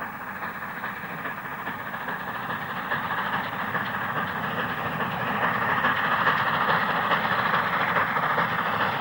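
Train running along the line, growing steadily louder.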